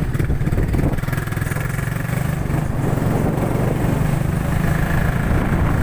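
Motorcycle engine running steadily while under way, a continuous low drone.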